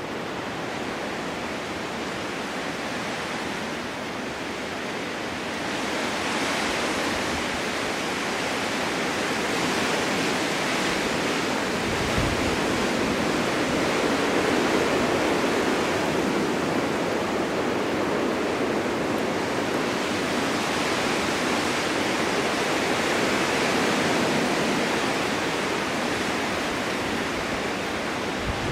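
Winter storm wind blowing steadily in gusts, a rushing hiss that swells louder about six seconds in and rises and falls with the gusts.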